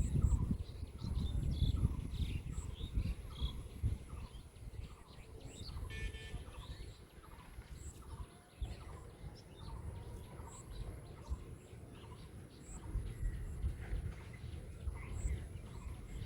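Birds calling outdoors: one repeats a short note steadily, about three every two seconds, while others chirp higher and more sparsely. A low rumble of wind on the microphone runs underneath, strongest in the first few seconds.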